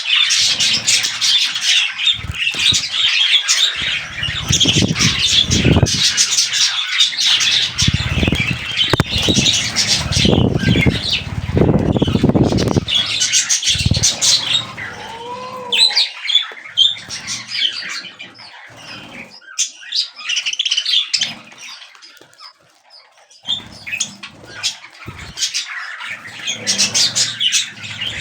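Budgerigars chattering and chirping in a dense warble, with repeated bursts of low fluttering noise, like wing flapping, in the first half. The chatter thins out and goes quieter past the middle, then picks up again near the end.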